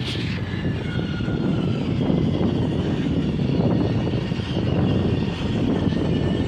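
Train running by, a steady rumble with faint high whining tones above it.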